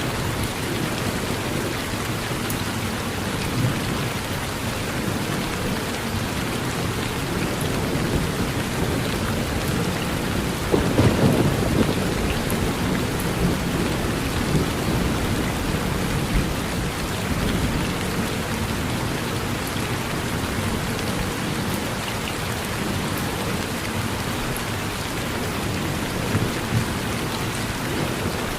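Steady rain falling on a porch, with a low rumble of thunder swelling briefly about eleven seconds in.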